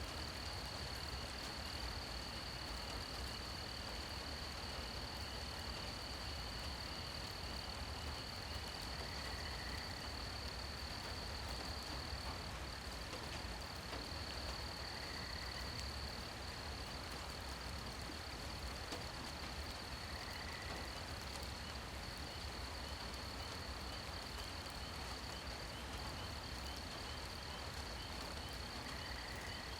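Night insects trilling steadily at a high pitch, with a short lower call repeating every five or six seconds, over the even hiss of light rain.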